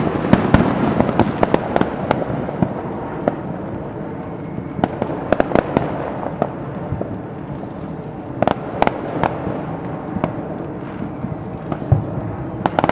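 Consumer fireworks: a ground fountain's steady hiss and crackle, with many sharp firecracker pops going off irregularly throughout, bunched in two clusters near the middle.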